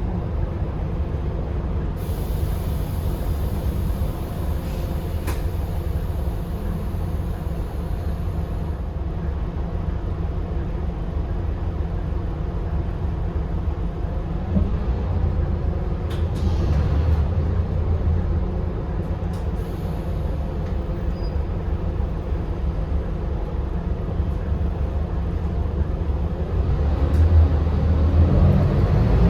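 Scania K280UB bus's 9.3-litre five-cylinder diesel engine running steadily. A high hiss lasts several seconds near the start, and the engine grows louder near the end.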